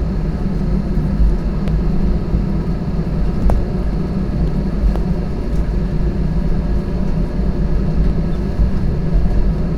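Airbus A320's jet engines running steadily at taxi power, heard as a low, even rumble and hum inside the cabin, with a few faint clicks.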